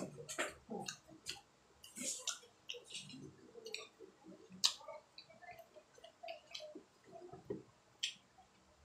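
Close-up wet chewing and lip-smacking of grilled chicken intestine skewers (isaw), with irregular sharp smacks and clicks.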